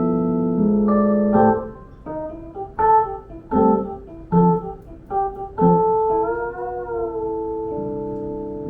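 Keyboard being played in a piano style: held chords, then about six separately struck notes or chords from about one and a half seconds in, and a sustained chord with a slight wavering pitch near the end.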